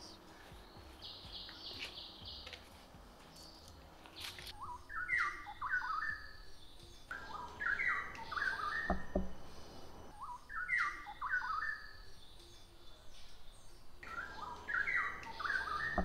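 White-crested laughingthrushes calling: four loud bursts of quick, stepped notes, one about every three seconds from about four seconds in.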